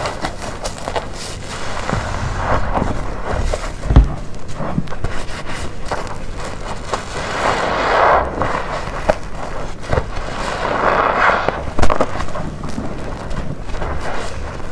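Soapy black waffle car-wash sponge being squeezed with detergent: wet crackling squelches and fizzing foam, swelling twice, with sharper knocks about four seconds in and again near twelve seconds.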